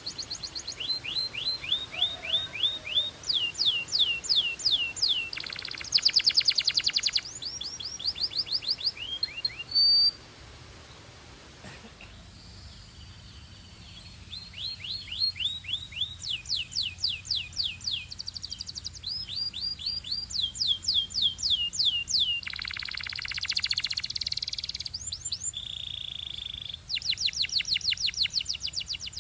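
Belgian canary singing in long phrases: quick runs of repeated downward-sweeping notes, dense rapid trills, and a held steady note near the end. The song breaks off for about two seconds roughly a third of the way in.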